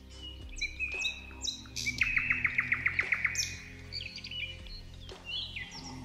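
Several birds chirping and calling in short high notes. About two seconds in comes a fast, even series of about a dozen sharp notes, the loudest part. Soft background music plays underneath.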